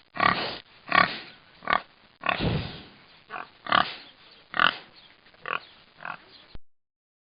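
Domestic pig grunting: a series of short, separate grunts, about one every half second to second, stopping shortly before the end.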